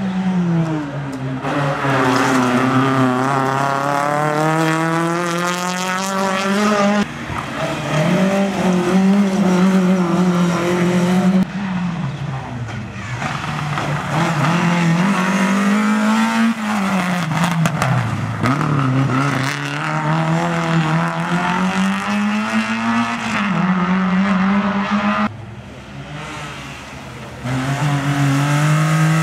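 Small racing hatchback engines driven hard around a tight taped course: the engine pitch climbs under acceleration, then drops for gear changes and braking, again and again. Several separate passes are joined with abrupt cuts in the sound.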